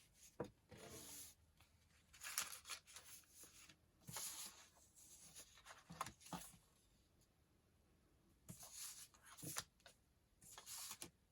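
Sheets of paper being handled and shuffled: soft, intermittent rustles and slides, about six of them, with a few light taps.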